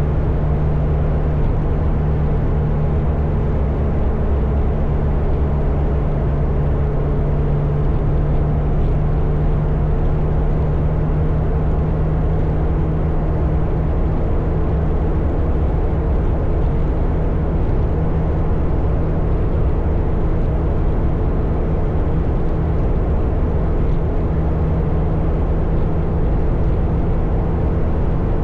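Motorcycle engine running at a steady cruising speed, with a constant drone and wind rush.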